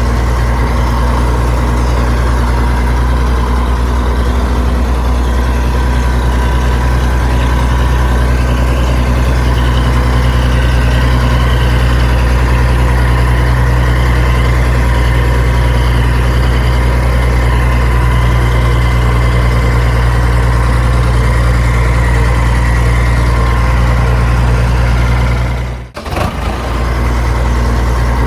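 Heavy engine idling steadily with a deep, even hum, most likely a recorded truck or backhoe engine sound laid over the toy scene. It cuts out for a moment near the end and resumes unchanged.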